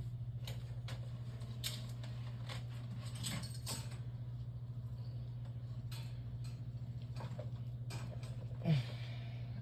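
Steady low hum with a fast flutter, overlaid by scattered clicks and knocks from things being handled and moved, and one short creak near the end.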